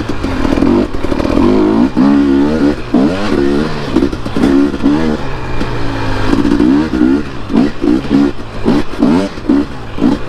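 Dirt bike engine being ridden hard, its pitch rising and falling over and over as the throttle is opened and closed, with quicker short revs in the second half.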